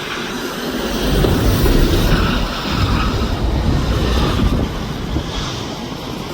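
Aircraft engine noise rising to a peak and easing off as a plane passes, with wind buffeting the microphone.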